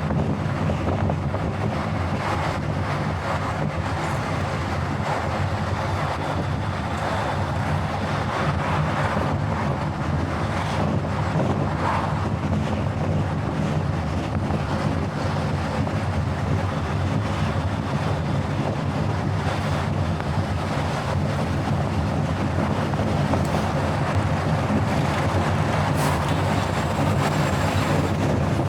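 Car driving at speed on a highway: steady road and wind noise over a constant low engine drone, with a few faint knocks.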